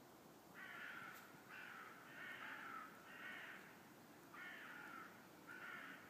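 A bird giving a series of about six harsh, faint calls, each about half a second long, with short gaps between them.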